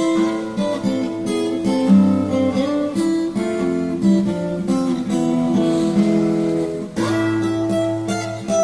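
Acoustic guitar playing an instrumental passage of strummed and picked chords, with no vocals.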